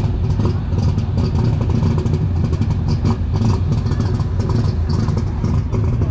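A superstock pulling tractor's engine running hard and loud, a dense low rumble with a ragged crackle over it.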